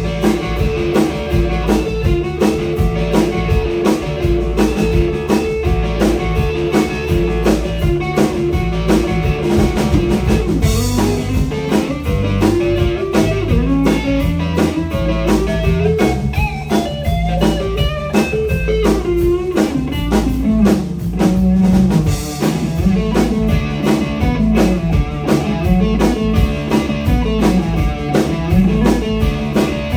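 Blues band playing live: guitar lines with bending notes over a steady drum-kit beat and bass.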